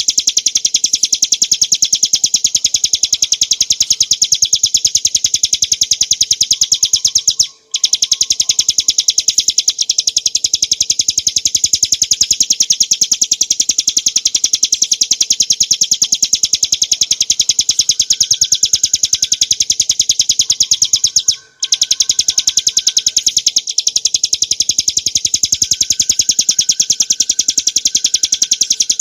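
Bar-winged prinia (ciblek gunung) singing a long, rapid trill of evenly repeated high notes, many to the second. It breaks off twice for a moment and starts again.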